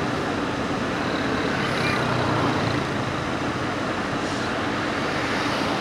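A steady low mechanical rumble under an even outdoor hiss, with no breaks or sharp knocks.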